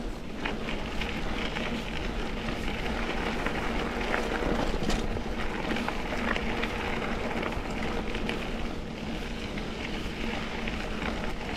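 A mountain bike rolling along a dirt double-track trail: steady tyre and wind noise, with scattered small clicks and rattles from the bike.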